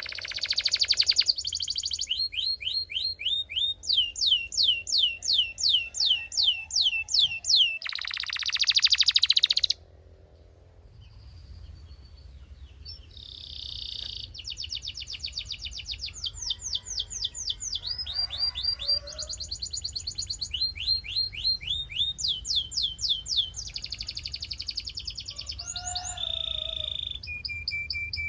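Belgian canary singing: long runs of quick, high, repeated chirping notes, broken by fast buzzing rolls around a second in and again near the third of the way through, the loudest parts. A brief quieter lull follows, then the repeated phrases pick up again.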